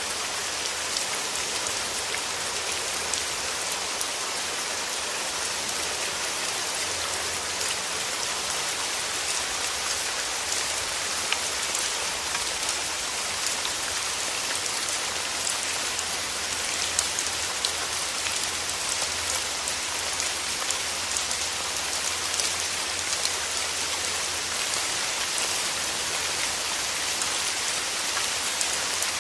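Steady rain falling: a dense, even patter of drops with scattered sharper individual drop hits throughout.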